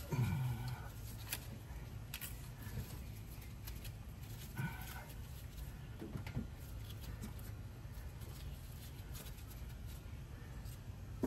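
Hand tools clicking and knocking lightly on engine parts, with three short vocal sounds and a steady low hum underneath.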